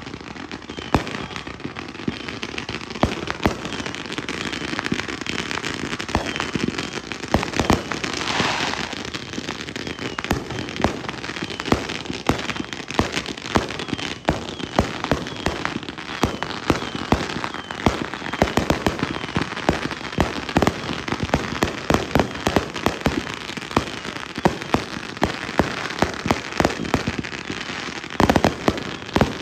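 Fireworks going off in rapid succession: many sharp bangs over a constant crackle, with a brief hissing burst about eight seconds in.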